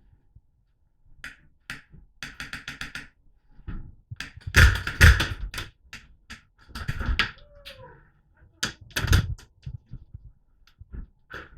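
A burst of rapid airsoft gunfire, about ten shots a second, among louder bursts of rustling and knocking close to a helmet-mounted microphone.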